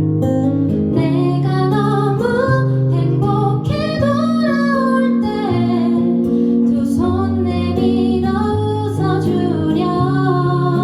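Acoustic guitar strummed in steady chords, accompanying a woman singing a slow melody.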